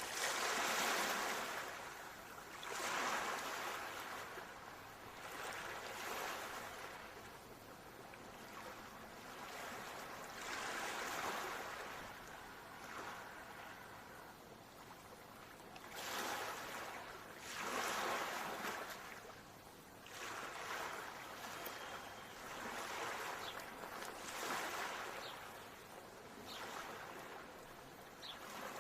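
Ocean surf: waves breaking and washing up, a hissing swell that rises and fades every few seconds.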